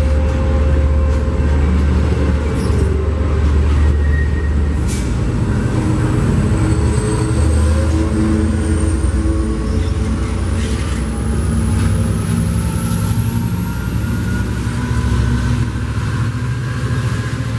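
Diesel-electric passenger train locomotive running loud with a deep steady rumble and humming engine tones, and a thin high whine rising slowly in pitch.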